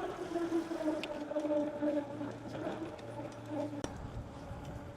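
Electric e-bike motor whining under power, its pitch sliding slowly down as the bike slows, over road and wind noise, with a couple of sharp clicks.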